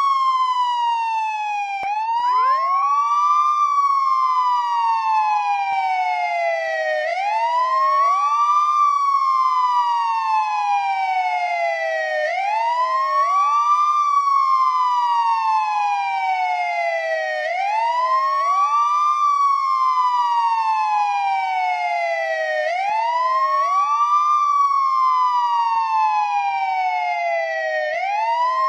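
Police escort siren wailing: each cycle is a quick rise in pitch followed by a long slow fall, repeating about every five seconds, with two overlapping tones offset from each other.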